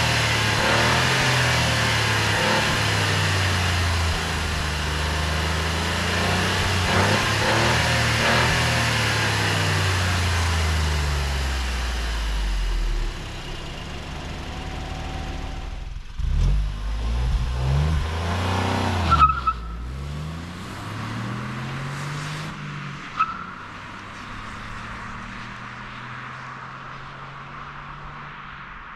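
Kia Picanto GT's 1.0-litre turbo three-cylinder engine running, its pitch slowly falling over the first dozen seconds. After it quietens, the revs rise and fall several times about halfway through, with a sharp click. It then settles into a steady, lower note that fades toward the end.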